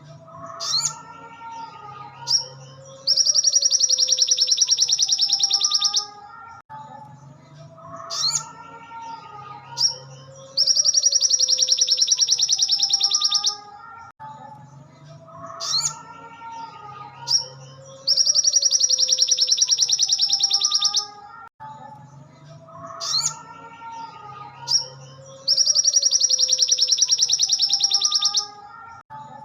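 Recorded song of a sogon songbird played as a looped training track: a loud, very fast high-pitched trill about three seconds long, four times, each time preceded by short sharp chirps and lower sliding whistled notes.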